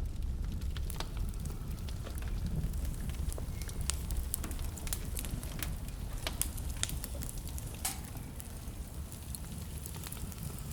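Wood burning in a fireplace, crackling with irregular sharp pops, over a steady low rumble.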